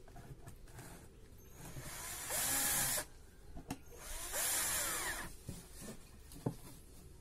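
Power drill run in two short bursts, its motor speeding up and slowing down each time, with a few sharp knocks on wood between them: working pallet wood for a beehive base.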